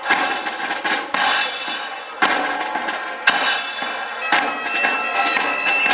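Live band music starts: sustained reedy wind tones over a drum beat, with a strong hit about once a second.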